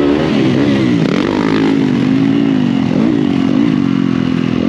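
Motocross dirt bike engine running hard, its pitch rising and falling repeatedly with the throttle.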